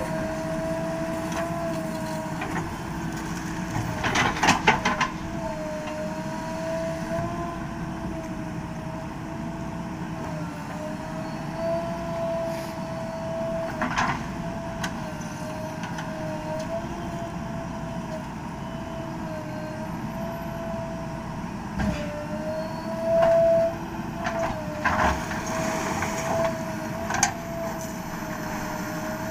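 JCB 3DX backhoe loader running steadily, its engine and hydraulics giving a whine that wavers slightly in pitch. Short metallic knocks and clanks break in: a quick cluster about four seconds in, one around the middle, and several more near the end.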